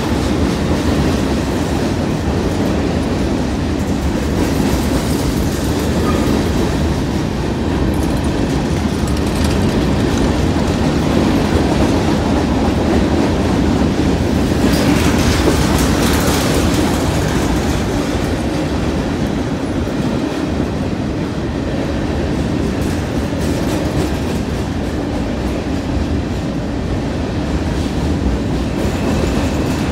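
Covered hopper cars of a grain train rolling past, a steady rumble of steel wheels on the rails.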